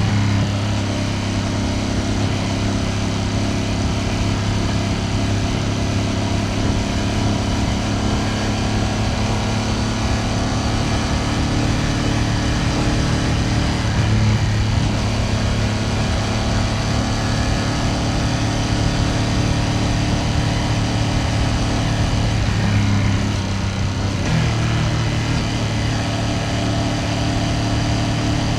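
Ducati Panigale V2S's V-twin engine running steadily while riding at cruising speed. The engine note shifts briefly a few seconds before the end, then settles again.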